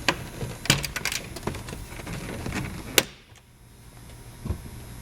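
Plastic dashboard trim panel and its retaining clips being worked loose by hand: a string of small clicks and knocks, with one sharp, loud click about three seconds in.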